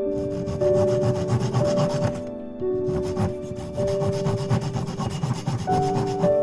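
Hand saw cutting through wood in repeated rasping strokes, pausing briefly a little over two seconds in before carrying on, with soft piano music underneath.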